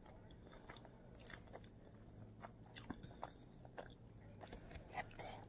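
Faint close-up chewing of a mouthful of soft fettuccine Alfredo: scattered small wet mouth clicks over a low steady hum.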